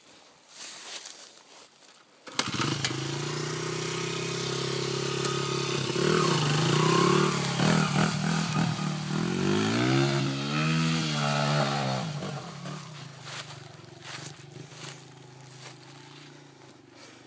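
Honda 80F dirt bike's small four-stroke single-cylinder engine comes in abruptly about two seconds in, then revs up and down several times under load as the bike climbs, before fading away.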